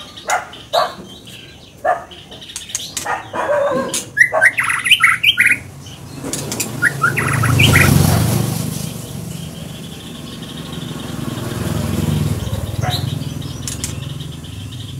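A songbird singing: a run of short chirps and clicks, then quick whistled phrases about four to seven seconds in. A broad rushing noise swells twice behind it, around the middle and again later.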